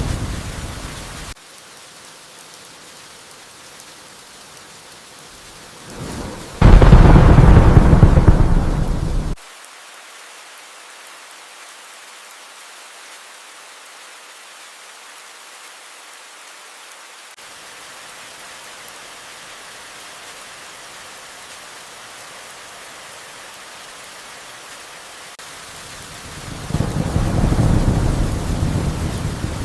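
Steady rain with thunder: a rumble ending shortly after the start, a loud thunderclap about seven seconds in that rolls for a couple of seconds and cuts off suddenly, and another rumble swelling near the end.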